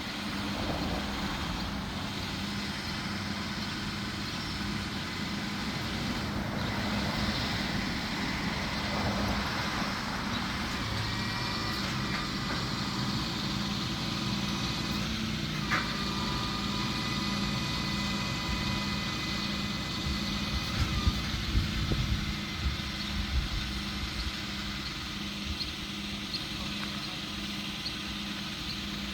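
Tow truck engine idling steadily. A steady high whine joins in about eleven seconds in and stops about ten seconds later, with a few sharp knocks around then.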